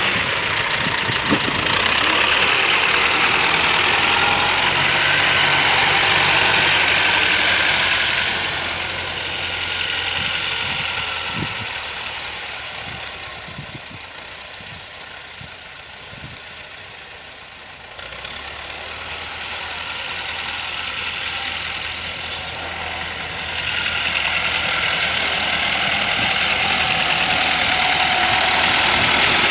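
T-40 wheeled tractor's air-cooled diesel engine running steadily. It eases off and quietens through the middle, then picks up again over the last several seconds.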